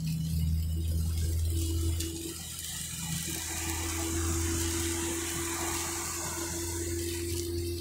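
Car driving in heavy rain on a wet road: a steady hiss of water from rain and tyre spray, which swells from about two seconds in, over a low engine and road hum.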